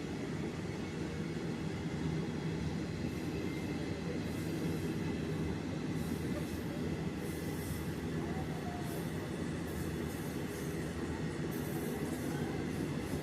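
Train running on the rails with a steady low rumble of wheels, and brief high-pitched squeals now and then.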